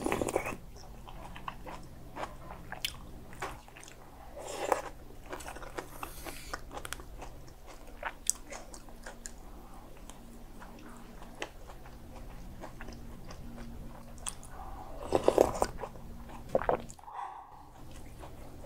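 Close-up chewing and biting of mouthfuls of Spam kimchi stew and rice: wet mouth sounds and crunches, with louder bouts about a second in, around five seconds in and around fifteen seconds in, over a low steady hum.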